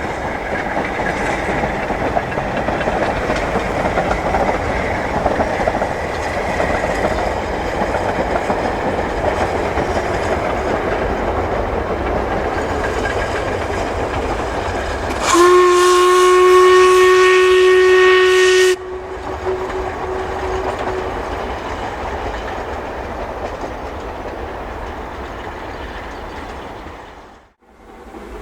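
Narrow-gauge steam train running by with a steady rumble and wheel noise. About halfway through, the locomotive's steam whistle sounds once for about three seconds, the loudest sound. Afterwards the train noise fades.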